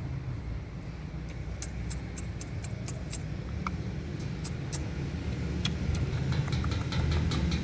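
A steady low rumble with a scattering of short, sharp clicks that come more thickly in the second half.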